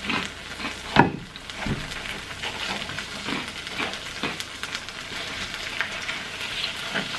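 Melted mozzarella sizzling and crackling on a hot electric cooker, with small scraping taps and one sharp knock about a second in.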